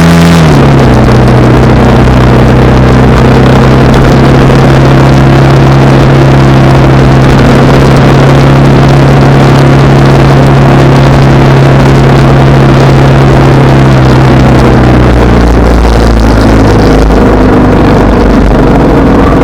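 Honda Rebel 300's single-cylinder engine pulling at a steady cruise with loud wind rush on the microphone. The engine pitch drops just after the start as it shifts up, then holds steady until it falls away over the last few seconds as the bike slows.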